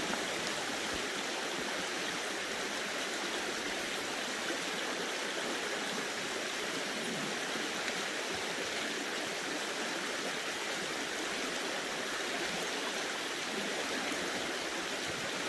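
Creek water flowing steadily over rocks: a continuous, even rushing.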